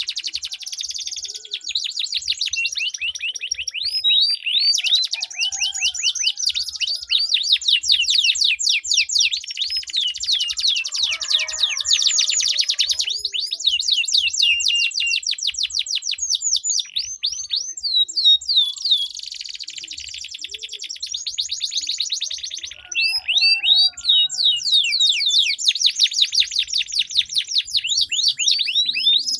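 Domestic canaries singing long rolling trills of rapid, repeated high notes, with brief breaks about four seconds in and again near the end.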